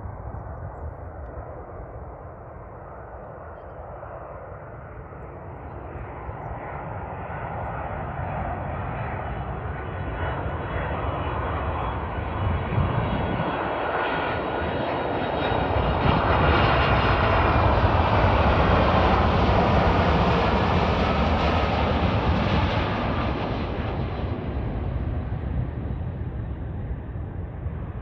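Boeing 767-300ER airliner on its landing approach, its jet engines' roar and whine growing louder as it nears, loudest about two thirds of the way through, then fading as it passes.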